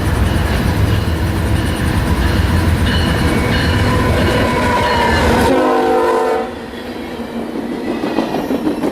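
Train passing close by: heavy locomotive rumble that drops off suddenly about five and a half seconds in, a short horn chord at that moment, then rail cars clacking over the rail joints.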